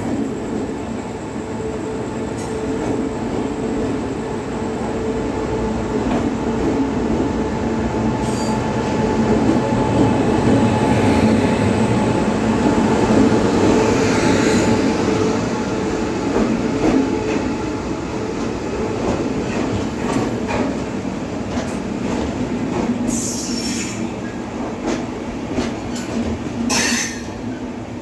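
Train running past at speed: a loud, steady rumble of wheels on rail with a steady hum underneath. It builds to its loudest around the middle of the pass and then eases off, with a few short sharp noises from the wheels near the end.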